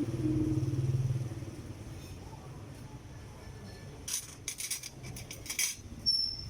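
A motor engine hums steadily and fades after about a second. A few seconds later comes a quick run of sharp clicks.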